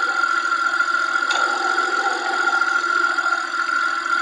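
Peugeot 407's ES9A V6 petrol engine running steadily at idle, with a steady high whine over the engine noise.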